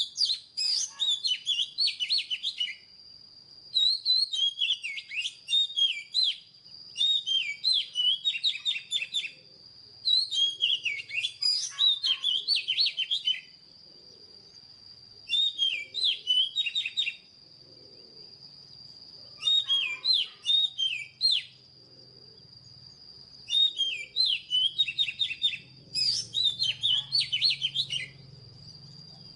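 Oriental magpie-robin singing: about eight phrases of fast, varied whistles and chirps, each two to three seconds long, with short pauses between them. A thin, steady high-pitched tone runs underneath throughout.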